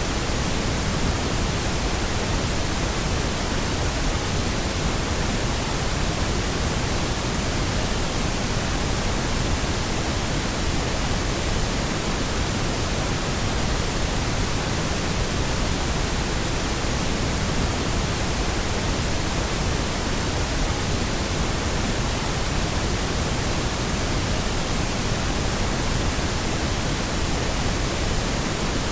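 Steady pink noise: an even, unchanging hiss spread across all pitches, heavier in the low end.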